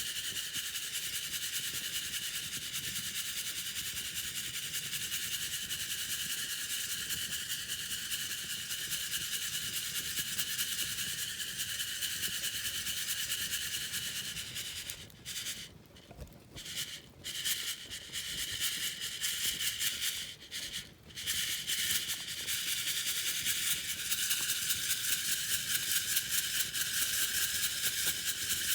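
Coffee beans rattling and rustling in a hand-held mesh roasting net as it is shaken over a campfire, a steady dense patter that stops briefly a few times past the middle before picking up again.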